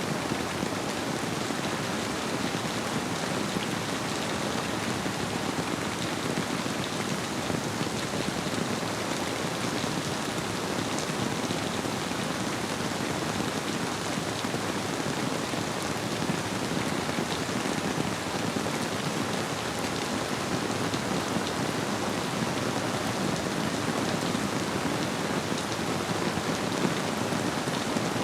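Steady rainfall: a dense, even hiss of drops with faint sharper ticks from single drops.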